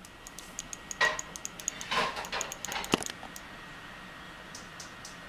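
Light metallic jingling and ticking, many quick taps with a thin high ring and a few louder clatters, about as a small jingling toy or bell makes when batted about in play; it stops a little after three seconds in.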